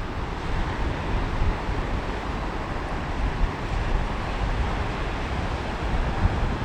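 Waves washing onto a beach, a steady rush of surf, with wind rumbling on the microphone.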